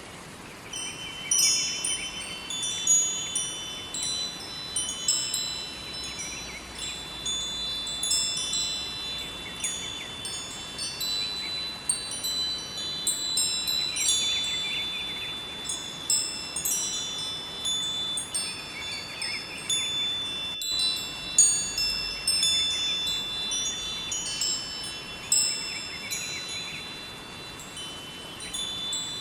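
Wind chimes ringing, many high tones struck at random and overlapping, over a faint steady rush of a flowing river. The chimes start about a second and a half in.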